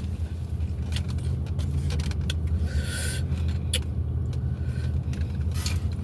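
Close-up chewing and mouth sounds of someone eating tacos, with scattered small crunches and clicks, over a steady low hum.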